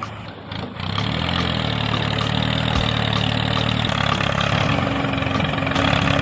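Engine running steadily at idle. It drops away briefly at the start and picks up again about a second in, and a higher steady tone joins near the end.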